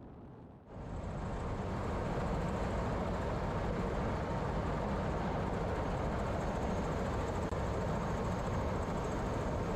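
Helicopter running, heard from inside: a steady rush of engine and rotor noise with a faint high turbine whine, cutting in sharply about a second in.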